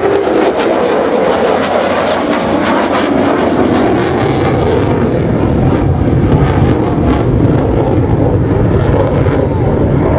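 Roar of an F-35C Lightning II's F135 jet engine during a demo pass, loud and continuous. It crackles sharply through the first half, then deepens toward a low rumble.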